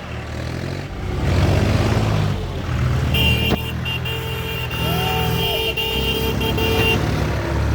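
Tractor engine running under load, its pitch stepping up and down as it works. About three seconds in, a steady high tone starts and holds for about four seconds over the engine.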